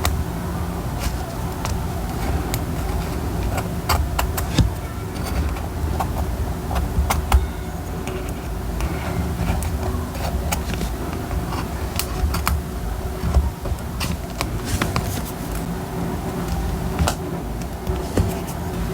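Paper and stationery being handled on a desk during diary decorating: scattered light taps and clicks at irregular intervals over a steady low hum.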